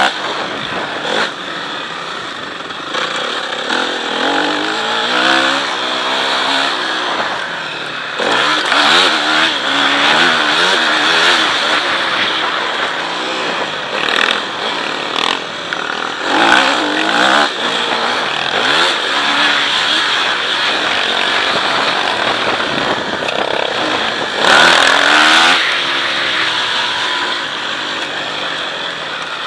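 Motocross motorcycle engine being ridden hard, its pitch climbing and dropping back again and again as the throttle is opened and closed and the gears change.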